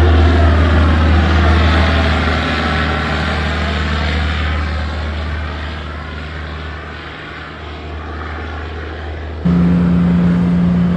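Heavy truck engine running with a steady low drone and a whooshing sweep as it passes, fading over about seven seconds, then an abrupt cut at about nine and a half seconds to another engine with a steadier, higher hum.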